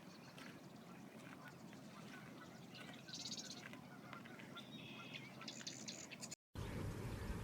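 Faint wetland ambience with scattered short, high bird calls and chirps. About six seconds in the sound cuts out for a moment and comes back over a louder, low rumbling background.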